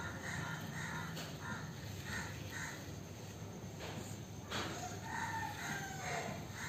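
Faint repeated bird calls, short notes every fraction of a second with one longer falling call near the end, and a single light knock about four and a half seconds in.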